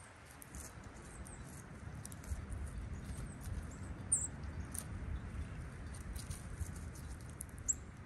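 Songbirds giving short, high chip calls, with two louder chips about four seconds in and near the end, among fainter ticks, over a low steady rumble.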